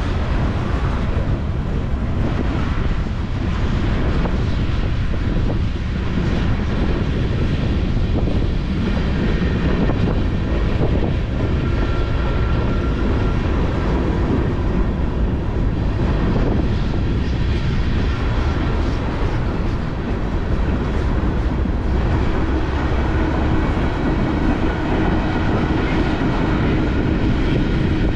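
Freight train cars rolling past at close range, mostly loaded tank cars: a steady rumble of steel wheels on the rails, with faint thin wheel whines now and then.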